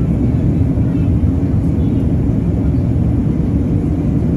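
Steady low rumble of an Airbus A380's jet engines and rushing air, heard from inside the passenger cabin.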